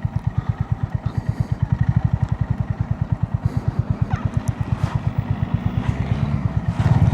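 Honda GB350S single-cylinder motorcycle engine running at low revs, its exhaust pulses an even beat of about a dozen a second, getting louder with the revs rising near the end.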